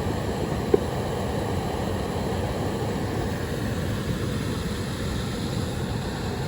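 Steady rushing of flowing river water, with one short sharp click about three-quarters of a second in.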